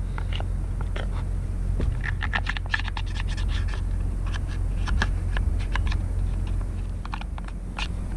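Oily sawdust being scraped out of the body of a Poulan Pro 4218 chainsaw with the bar removed: a run of short, irregular scratching strokes.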